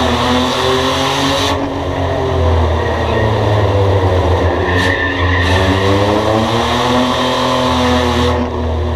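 Race car engine running hard on a track, its pitch dropping off and then climbing again near the middle as it lifts and accelerates.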